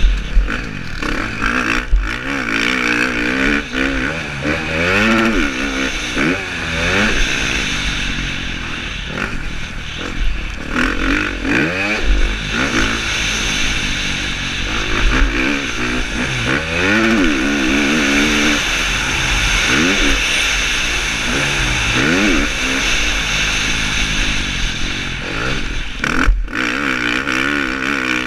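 KTM 350 SX-F single-cylinder four-stroke motocross engine racing, its pitch climbing and dropping over and over as the rider throttles on and off, under a heavy wind hiss. A few short thuds stand out.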